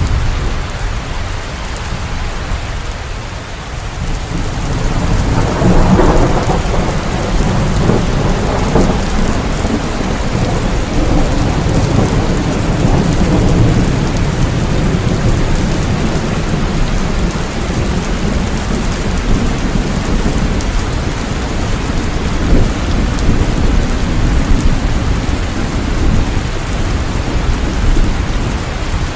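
Steady rain with a low rumble of thunder underneath; a thunder roll swells about six seconds in and rolls on.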